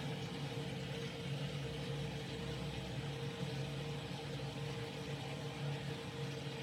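Combustion fan of a Ferroli Optimax HE Plus 31C combi boiler running with a steady hum during its start-up fan purge, which runs for about two minutes after the boiler is switched back on.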